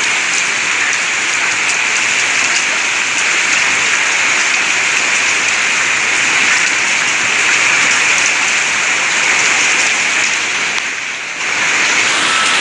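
Heavy hailstorm rain pouring down in a dense, steady hiss that dips briefly near the end.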